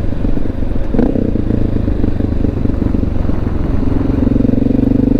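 Honda XR650L's single-cylinder four-stroke engine running as the motorcycle rides along, its note picking up about a second in and settling into a steady, even tone near the end.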